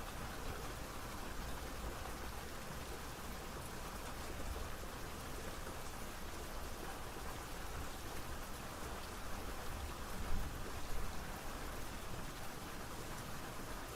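Steady rain falling, an even hiss of drops with a low rumble underneath, briefly louder twice about ten seconds in.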